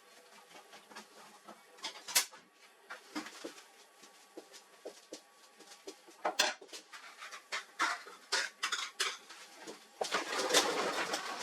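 Scattered clicks and clinks of hard metal and plastic parts being handled during printer disassembly, with a denser stretch of rattling and scraping near the end.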